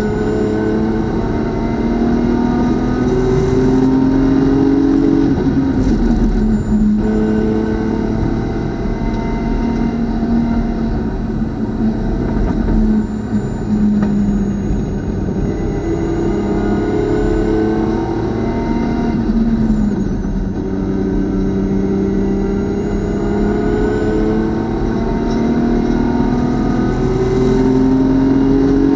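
Engine of a BMW club race car running hard on track. Its pitch climbs repeatedly as it accelerates, with drops where it shifts or slows, about 6 and 20 seconds in.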